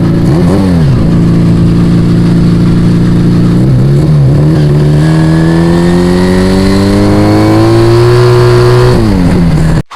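Yamaha Vega ZR motorcycle with an aftermarket Arrow exhaust, the engine running at a steady speed and blipped briefly twice, then pulling with its pitch rising slowly for several seconds before it drops away. The sound cuts off suddenly near the end.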